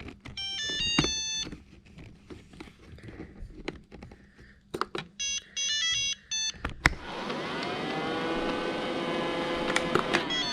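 Robot vacuum cleaner playing two short runs of electronic beep tones, then its motor starting about seven seconds in and running steadily.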